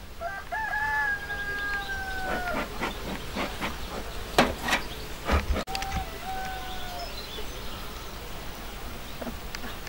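A rooster crowing: one long call that falls away at the end, then a shorter call a few seconds later. Between the two crows there is a run of sharp knocks.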